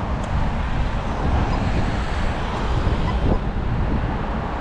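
Wind rumbling on the microphone over road vehicle noise, steady throughout.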